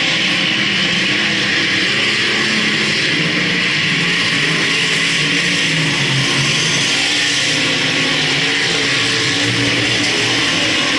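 Several speedway race cars' engines running together at speed, a loud steady drone with wavering engine pitches and no breaks.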